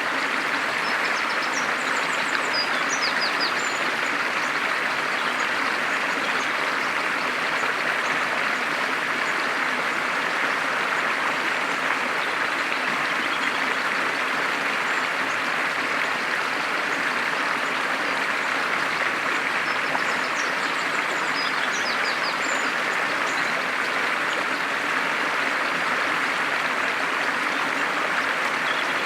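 A stream flowing steadily, with short high bird chirps about two seconds in and again about twenty seconds in.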